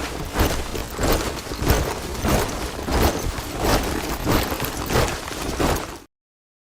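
A troop of soldiers marching in step, their boots striking together about three times every two seconds over a dense shuffle of many feet. It cuts off abruptly near the end.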